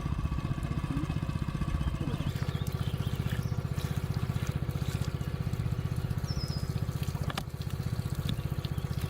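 A small engine running steadily at an even, rapid pulse, with water trickling.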